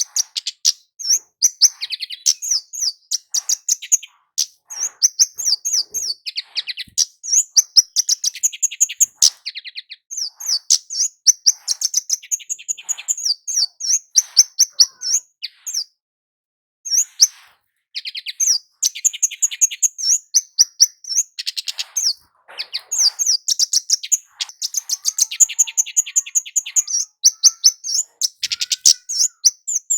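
Kemade jawa, a small flowerpecker, calling without let-up: quick runs of sharp, high chips, with a short break about halfway through.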